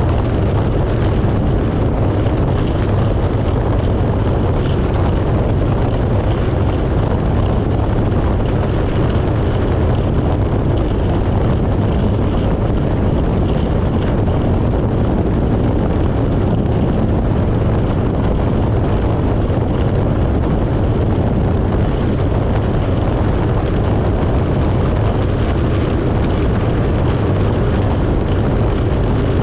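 1994 Yamaha Wave Raider jet ski's two-stroke engine running steadily under way, a loud, even drone heavy in the low end.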